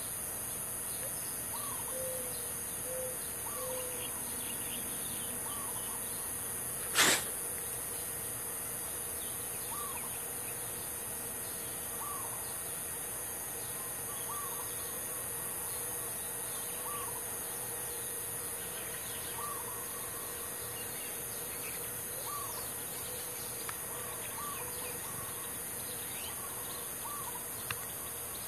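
Small birds chirping now and then, about once a second, over a steady high hiss. A single sharp knock about seven seconds in is the loudest sound.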